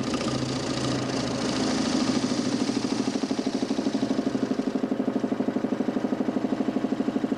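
DC motor spinning a large plywood Nipkow disc in a homemade mechanical television, giving a steady hum with a fast, even pulse.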